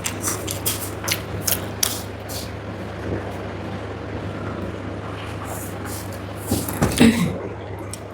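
Close-miked eating sounds: a run of sharp chewing and mouth clicks in the first couple of seconds, then a short, louder mouth or throat sound about seven seconds in, over a steady low hum.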